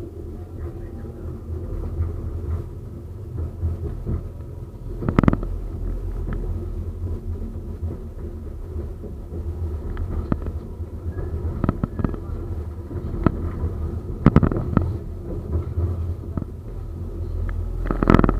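71-931M Vityaz-M tram running along the track: a steady low rumble with a faint steady tone above it, broken by about five sharp knocks from the wheels over the rails, the strongest about five seconds in and near the end.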